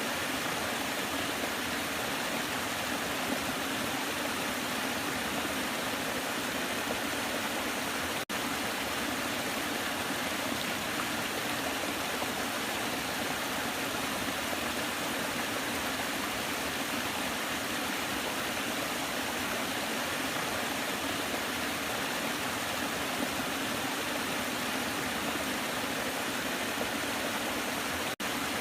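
Waterfall: a steady rush of falling water, dropping out for an instant twice, about eight seconds in and near the end.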